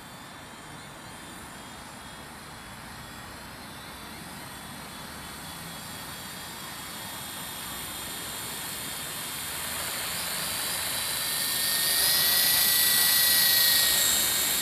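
Single-rotor RC helicopter (WL Toys Sky Dancer) in flight: a high electric-motor whine over the rotor's whoosh, growing steadily louder from about halfway through and loudest near the end.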